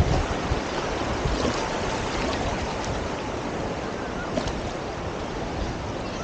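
Ocean surf washing onto a sandy beach, a steady rushing wash of noise.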